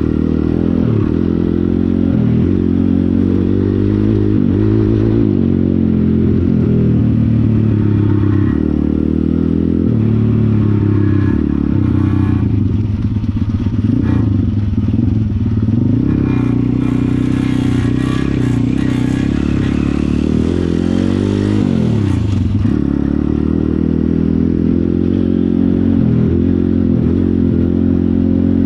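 Pit bike engine running under load, its pitch rising and falling over and over as the throttle is opened and closed.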